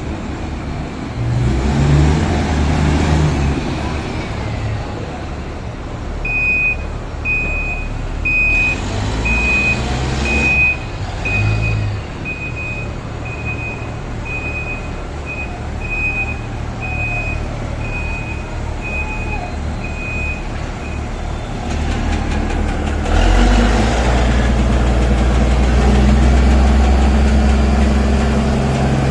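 Diesel dump truck engine running with a reversing alarm beeping steadily, about one and a half beeps a second, for roughly a quarter minute in the middle. Near the end the engine speeds up and holds a louder, steady run.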